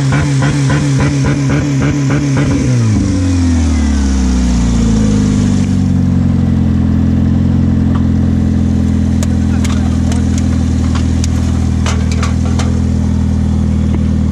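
A Saturn car's four-cylinder engine just after starting, running with a fast, regular pulsing for about three seconds. Its pitch then drops and it settles into a steady idle, with a few light clicks later on.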